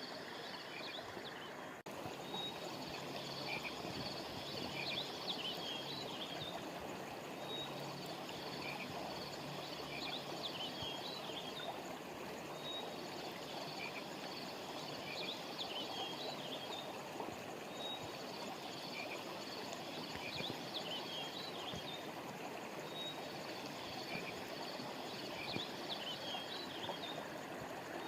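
A river or stream flowing steadily, with small birds chirping high above it in a short phrase that repeats in the same pattern about every five seconds.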